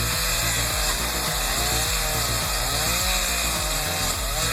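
Chainsaw running under load while felling a large tree, its engine pitch dipping and rising as the chain bogs in the cut and recovers.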